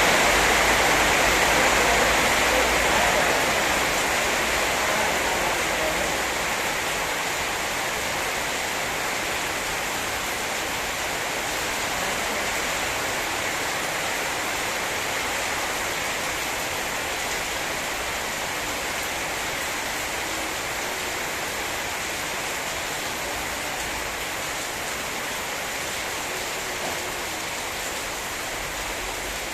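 Heavy rain falling steadily in a rainstorm, a little louder over the first few seconds, then even.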